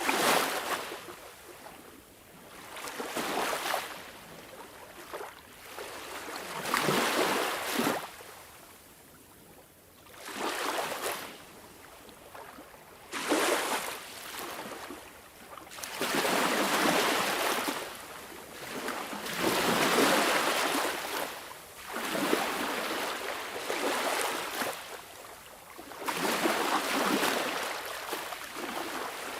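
Sea waves washing in, a surge of surf swelling and falling away about every three seconds.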